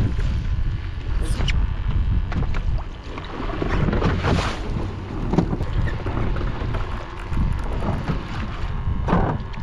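Wind buffeting the microphone in a gusty rumble over rough water sloshing around a fishing boat, with a louder rush of water about four seconds in.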